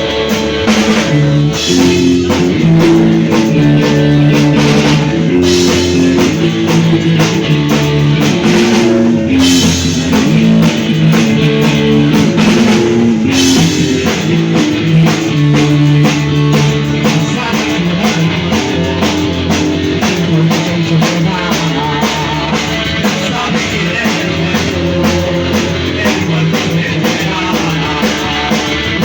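A live rock band playing with electric guitar and a drum kit: a loud, steady instrumental stretch of a fast protest-punk song.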